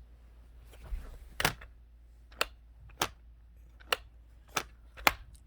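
Sharp clicks and taps of hard plastic toy pieces being handled, about seven of them at uneven intervals.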